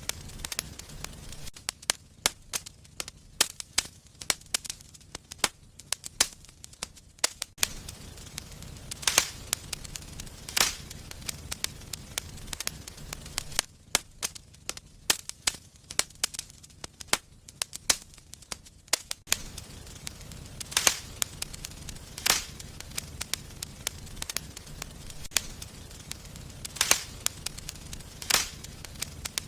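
Wood fire burning in a fireplace, crackling with irregular sharp pops and a handful of louder snaps over a low steady rumble.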